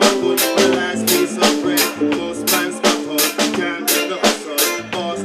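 Live reggae band playing an instrumental passage: sustained chords under a steady beat of sharp percussion hits, about two to three a second.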